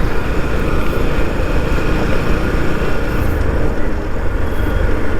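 Riding noise on a moving motorcycle: wind buffeting the microphone over the engine and road noise, a steady loud rumble.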